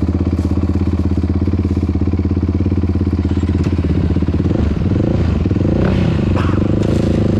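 Yamaha YFZ450R quad's single-cylinder engine, fitted with a Rossier R5 aftermarket exhaust, idling steadily. About four seconds in, the revs start to rise and fall with light throttle as the quad creeps off.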